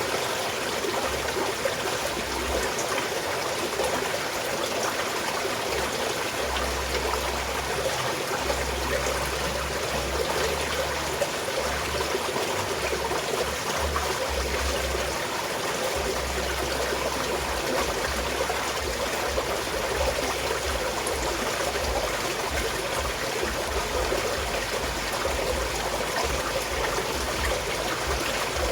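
A small mountain stream flowing and trickling steadily over stones.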